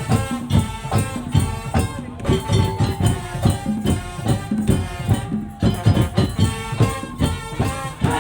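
Madurese tong-tong (daul) ensemble playing: wooden slit drums and drums struck in a fast, driving rhythm, with held melody notes sounding over the beat.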